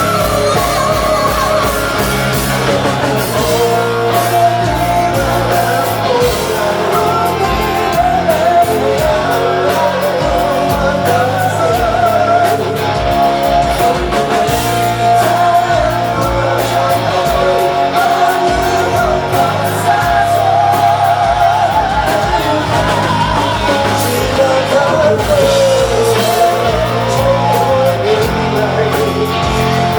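Live rock band playing loudly: electric guitar, bass and drums, with a wavering lead melody line held above them.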